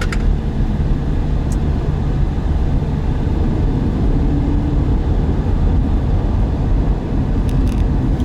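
A car driving at highway speed, heard from inside the cabin: a steady low rumble of road and engine noise, with a few faint brief clicks.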